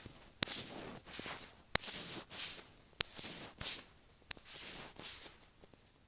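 Latex-gloved fingers rubbing and tapping right on an earphone microphone, giving close, sticky rubbing noises broken by four sharp taps about a second apart. The sound fades out near the end.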